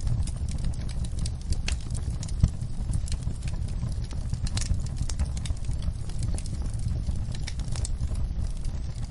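Wood fire crackling with many irregular sharp pops, one louder pop about two and a half seconds in, over a steady low rumble and the patter of rain.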